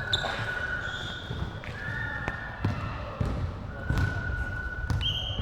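Indoor volleyball play: several drawn-out squeaks, typical of sneakers on a court floor, with a few sharp ball hits in between.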